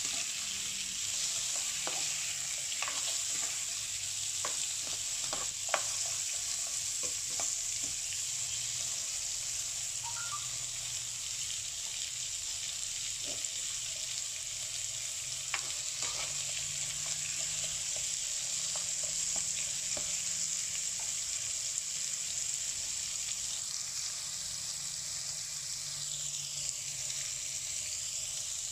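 Carrot sticks and garlic cloves sizzling steadily in a frying pan as they stir-fry. A wooden spatula scrapes and taps against the pan now and then, mostly in the first half.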